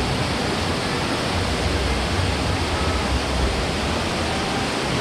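Waterfall: steady rushing of falling water with a low rumble underneath.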